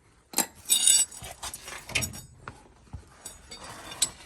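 Metal wrenches clinking and knocking as they are handled, with a ringing clink about a second in and scattered lighter knocks and rustling after.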